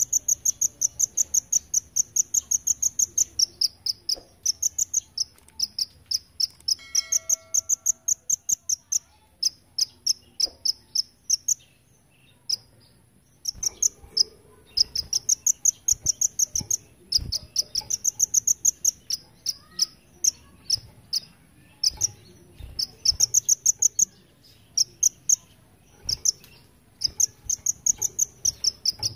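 Kolibri ninja sunbird singing rapid, insect-like 'tembakan' trills that copy the belalang emas insect. The trills are high-pitched runs of about ten quick strokes a second, each one to three seconds long, with short breaks between them, over a faint steady high whine.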